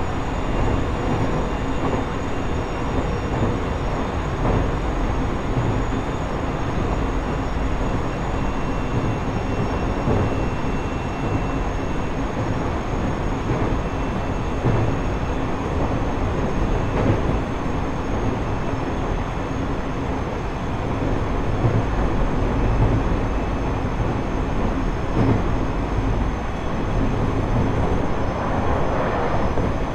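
Running noise inside JR East E127-series electric multiple unit car KuMoHa E127-11, a Toyo GTO-VVVF motor car, heard while the train travels between stations. Steady wheel-on-rail rumble lies under several steady whine tones from the traction drive. A higher tone fades out a few seconds in, and the rumble swells briefly near the end.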